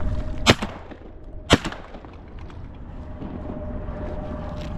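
Two shotgun shots about a second apart, each a sharp blast with a short echo, fired at incoming waterfowl.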